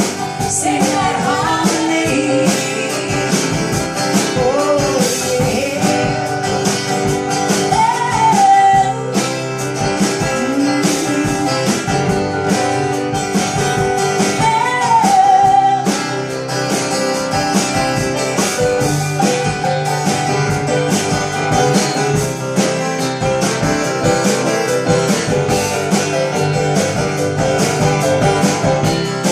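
Live acoustic roots band playing a passage of the song without lyrics: guitar accompaniment, with a sliding, wavering melody line over it in the first half and a held low bass note in the second half.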